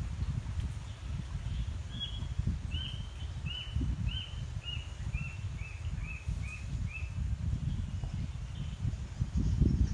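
A bird calling a run of about ten short notes, roughly two a second, stepping down in pitch, over a steady low rumble.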